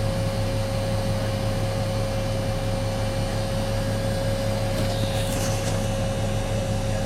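Steady mechanical hum with a low drone and a constant mid-pitched tone over it, unchanging throughout.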